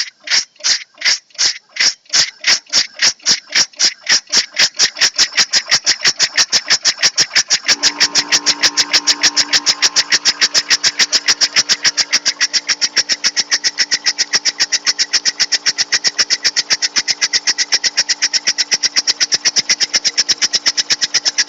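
Home-made steam traction engine running from a cold start, its exhaust chuffs speeding up from about two and a half a second to about five a second and becoming even. A steady hum joins about eight seconds in.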